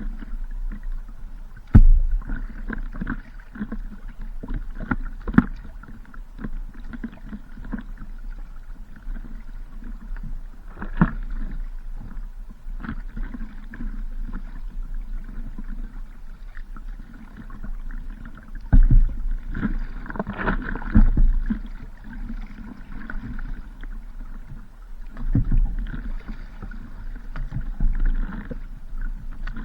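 Water sloshing and splashing, with wind rumbling on the microphone and irregular knocks throughout, louder around the middle.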